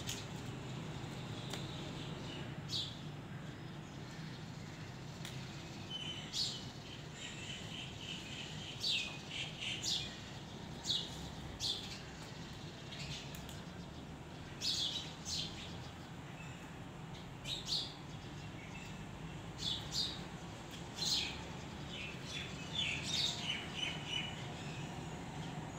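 Small birds chirping on and off in short, high chirps that come in little clusters every second or two, over a steady low hum.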